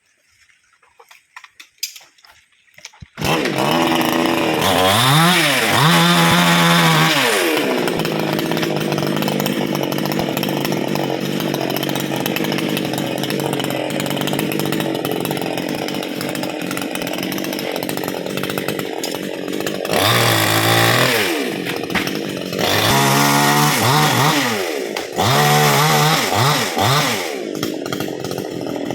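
A two-stroke chainsaw starts suddenly about three seconds in after a few light clicks and revs up and down. It then runs steadily while cutting teak, with more rises and falls in revs from about twenty seconds in.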